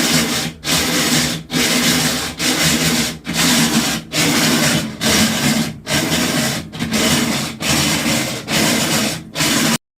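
GE washing machine grinding loudly in repeating bursts, a little more than one a second, instead of agitating, then cutting off near the end. This is the sign of a failed shifter actuator that no longer engages and disengages the clutch gear.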